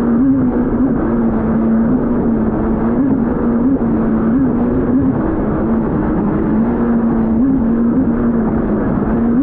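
Yamaha VX Cruiser H.O. WaveRunner's four-stroke engine and jet pump running steadily at speed, over the rush of water along the hull. The engine note briefly rises in pitch every second or so.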